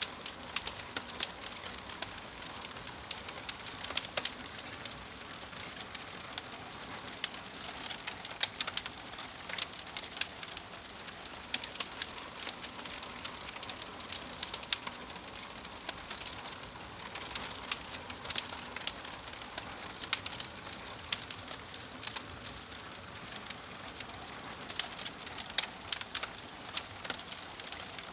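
Fire crackling: a steady hiss with irregular sharp pops and snaps, a few louder than the rest.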